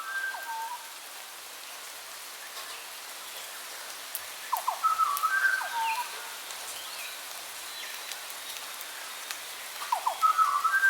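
A songbird repeats a short phrase of quick notes and brief downward-sliding whistles three times: once at the start, again about four seconds in, and again near the end. A steady hiss runs underneath throughout.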